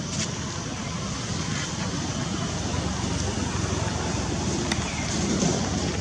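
Wind rumbling on the microphone over a steady outdoor background noise, with a few faint clicks.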